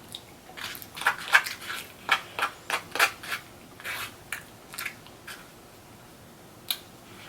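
Close-up chewing of crunchy fried food: a run of sharp crunches and crackles, several a second, fading out after about five seconds, with one more crunch near the end.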